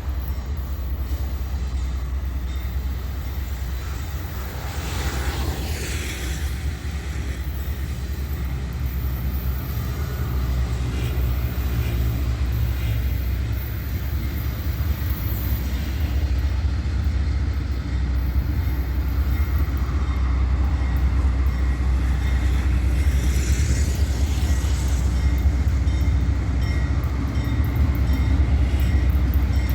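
Heavy freight train rolling past at close range: a steady low rumble of wheels on rail that grows slightly louder toward the end.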